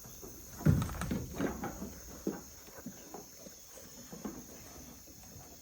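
Goats moving and feeding in their pen: an irregular run of knocks and rustles, the loudest about a second in. Insects buzz steadily behind it.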